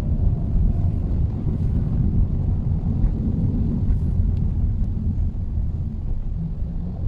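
Steady low rumble of a Mitsubishi Xpander on the move: engine and road noise, with a few faint ticks.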